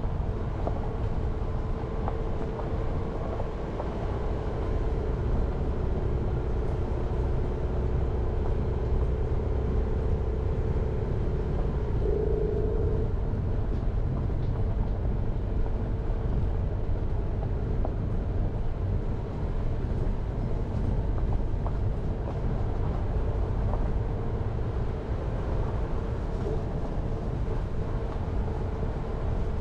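Jeep Renegade driving along a mountain road: steady engine and tyre noise with a humming tone that shifts briefly about twelve seconds in.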